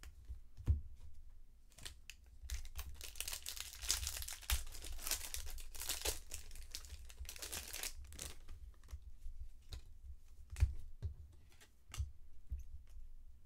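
Foil wrapper of a trading-card pack being torn open and crinkled, a few seconds of rustling in the middle, with a few single sharp taps before and after.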